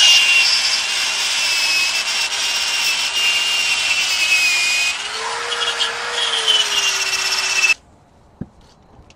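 Electric power tool, drill-like, scouring rust off corroded metal. It runs steadily with a high whine and a lower hum, eases briefly about five seconds in, then cuts off abruptly near the eighth second.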